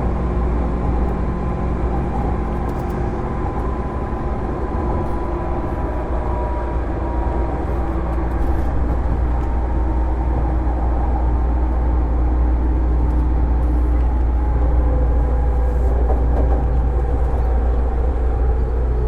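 JR 205-series electric train car (MoHa 205-384) running along the line, heard on board: a steady low rumble of wheels and bogies under the whine of its MT61 externally-fanned traction motors. The motor whine drifts slowly in pitch and eases downward near the end.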